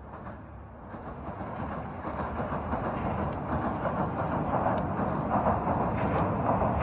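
A two-car TH2100-series diesel railcar train running onto a steel truss bridge, its running noise swelling steadily as it approaches. A few faint clicks sound over the noise.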